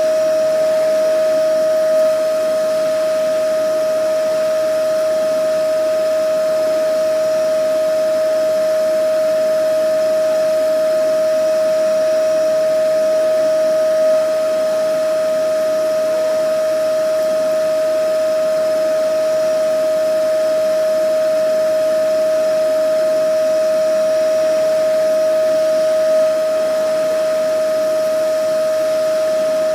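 Vacuum cleaner running continuously: a steady whine over an even hiss, with slight swells in loudness about every twelve seconds.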